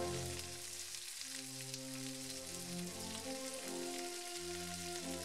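Cubed chicken breast and bell peppers sizzling in oil in a frying pan, with background music of held notes changing about once a second.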